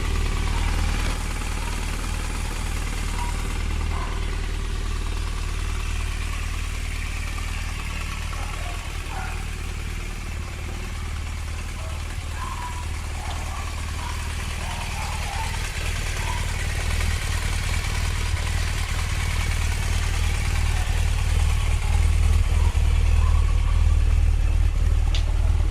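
BMW R1200RT's flat-twin boxer engine idling steadily, getting a little louder in the second half.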